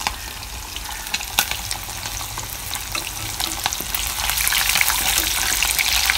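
Chicken pieces frying in hot oil in an iron kadhai, crackling and sizzling, with metal tongs clicking against the pan as the pieces are turned. The frying grows louder about four seconds in.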